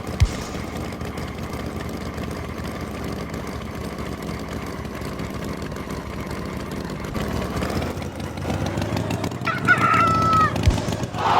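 Tractor engine running steadily, then a rooster crows once near the end.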